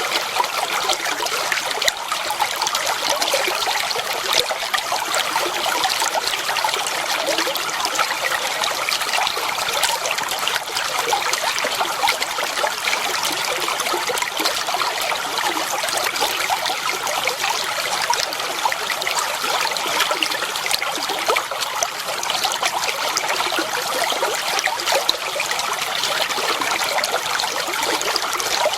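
Shallow stream water flowing and trickling steadily, a continuous bright babble.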